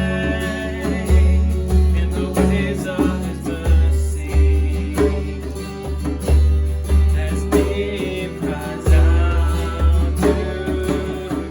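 Worship band music with guitar over a steady, even bass beat.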